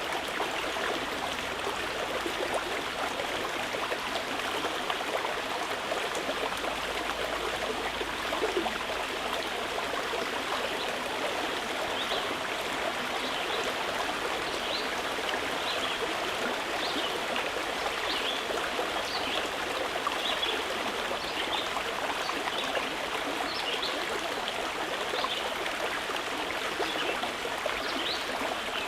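A stream of water flowing steadily, with a continuous rushing and trickling. From about twelve seconds in, short high notes repeat faintly over it.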